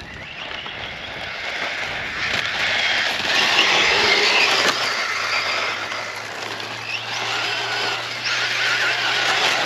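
Brushless electric motor of a Losi RC truck whining as the truck drives at speed, with its tyres hissing over sand. The sound grows louder over the first few seconds and cuts off abruptly at the end.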